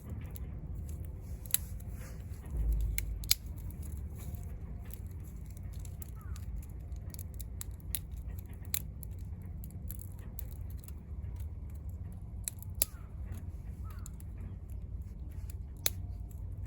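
Wood fire burning in a Vargo Hexagon wood stove: sharp, irregular crackles and pops from the burning wood over a low, steady rumble, with a brief low thump about three seconds in.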